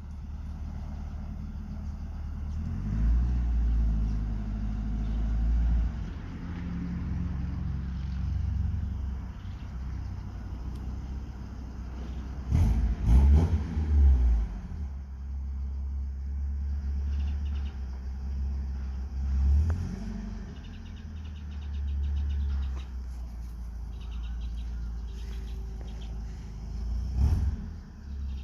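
Colt pickup engine running with its muffler removed, idling with a low drone and revved up several times. The loudest revs come about halfway through.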